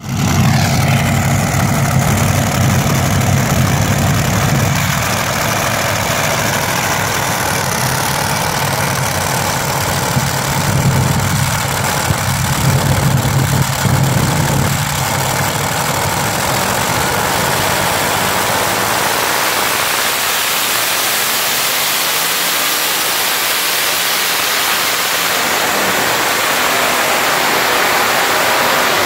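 Loud, deep engine of a truck or tractor pulling vehicle running under load. Its deep rumble fades out after about fifteen seconds, leaving a steady higher-pitched noise.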